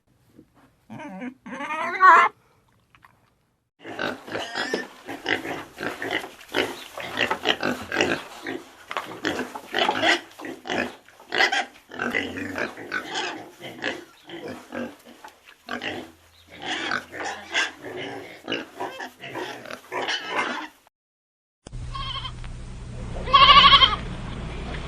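Pigs grunting and oinking in quick short calls, several a second, for most of the time. Near the end a different recording starts with a steady low hum and a goat bleating once.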